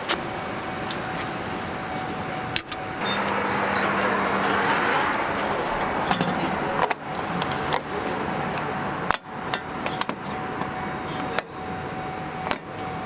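Steady road and engine noise inside a moving van, broken by a few abrupt cuts and clicks.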